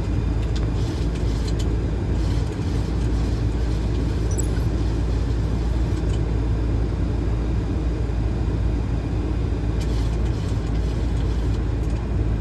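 Steady flight-deck noise of a Boeing 737 on approach: a continuous low rumble of airflow and engine hum.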